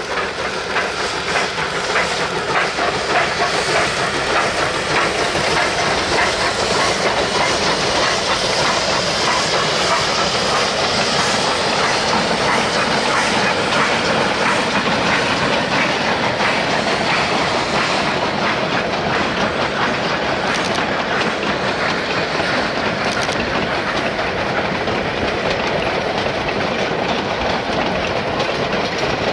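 Narrow-gauge freight cars of a steam train rolling past close by, their wheels clattering steadily over the rail joints.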